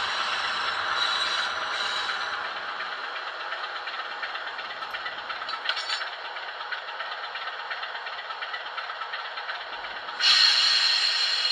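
Sound-fitted OO gauge model of a Bachmann Class 47 diesel running, its DCC diesel engine sound mixed with fine rapid wheel clatter. About ten seconds in, a sudden louder, brighter sound cuts in.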